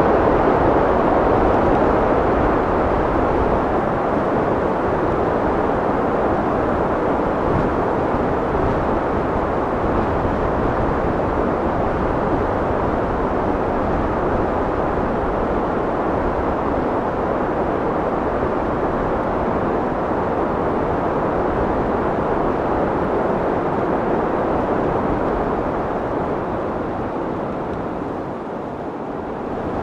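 Steady rushing wind, a continuous noise that dips slightly near the end.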